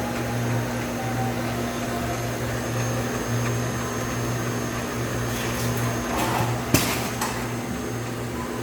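Cheese ball forming machine running with a steady motor hum that pulses slowly and regularly. A short clatter and one sharp clack come about two-thirds of the way through.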